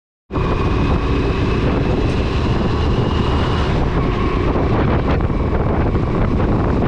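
Loud wind buffeting the microphone of a moving bike, with the vehicle's running noise underneath. It starts abruptly just after the beginning, and a faint steady whine sits over it for the first few seconds.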